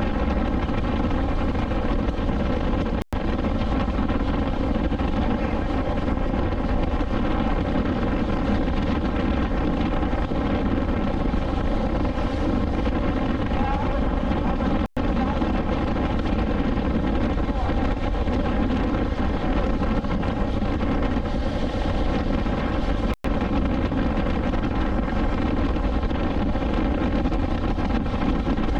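BMW S1000XR inline-four engine running at a steady pitch while cruising, with wind rush. The sound drops out for an instant three times.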